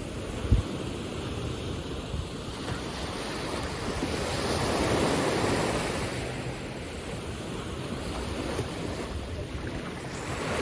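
Ocean surf washing onto a beach, with a wave swelling up about halfway through, and wind rumbling on the microphone. There is a brief low thump near the start.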